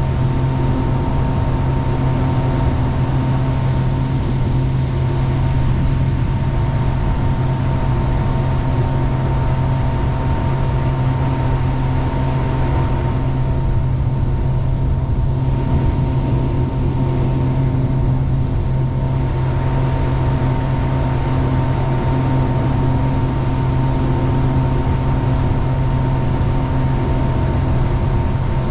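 Jet boat engine running steadily under way, a constant low drone with a steady hum and no change in speed.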